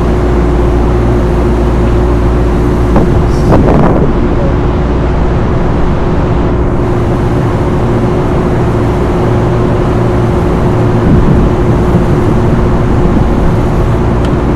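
Rooftop centrifugal exhaust fan machinery running with a loud, steady drone and a constant hum, with a brief louder swell about three and a half seconds in.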